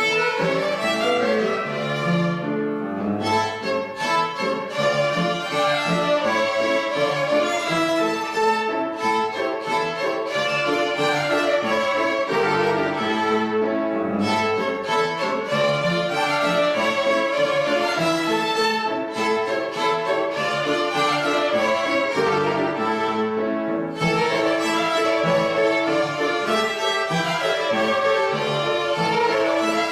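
A violin ensemble playing a melodic piece together, with short pauses between phrases.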